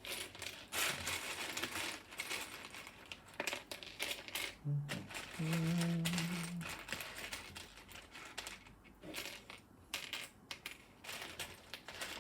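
Small plastic Lego pieces clattering and clicking irregularly as they are tipped out and sorted by hand, with a short low hum about five seconds in.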